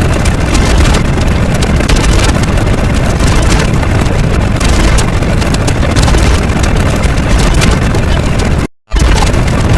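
Loud, continuous rumbling noise with a heavy low end and no clear pitch or rhythm. It cuts out for a split second near the end, then resumes.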